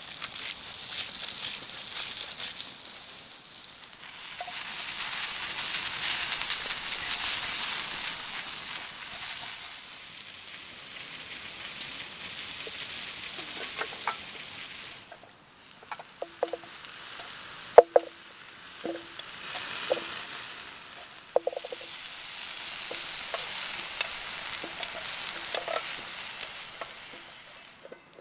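Food frying in a pan over a campfire: a loud sizzle that swells and eases in waves and breaks off briefly about halfway through, while a utensil stirs it and knocks against the pan a dozen or so times in the second half.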